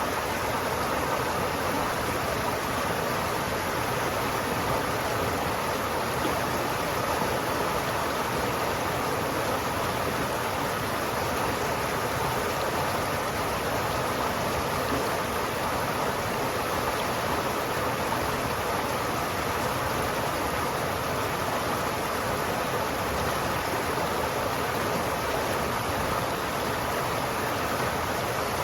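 River water flowing steadily, a continuous rushing sound with no changes.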